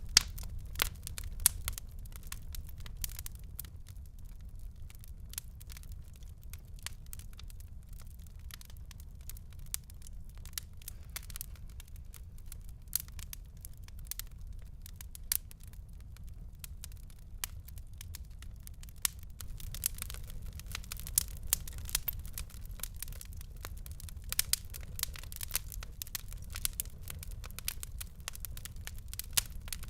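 Wood fire crackling and popping: irregular sharp snaps over a low steady rumble of the flames, the pops coming thicker in the second half.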